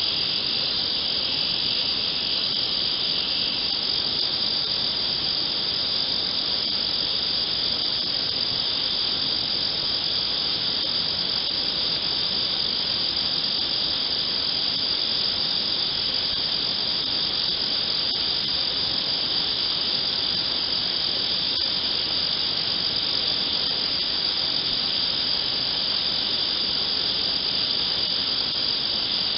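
Night chorus of crickets: a dense, steady, high-pitched trilling that never breaks.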